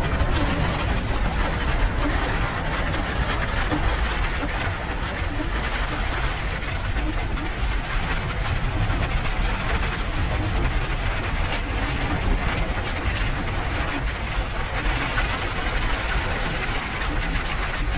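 Steady rain, an even hiss with a heavy low rumble beneath it.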